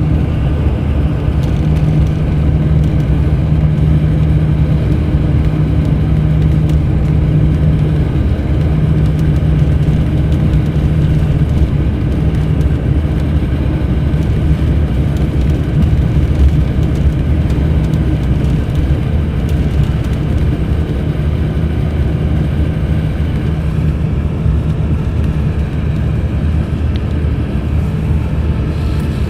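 Mercedes-Benz O500 RSD BlueTec5 coach's diesel engine running steadily while the bus is under way: a constant low drone with road noise.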